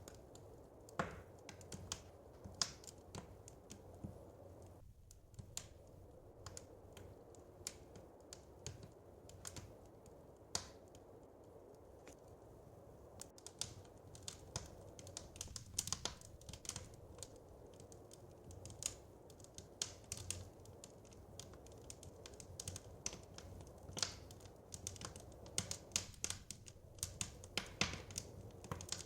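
Wood fire crackling in a fireplace: irregular sharp snaps and pops, coming thicker in the second half, over a low steady rumble.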